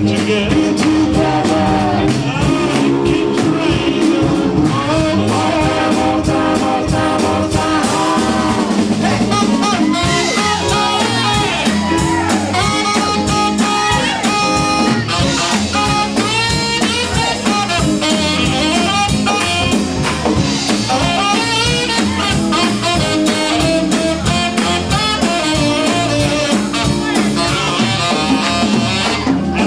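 Live doo-wop group singing with a backing band of guitar, brass and drums, heard through a badly distorted PA sound system.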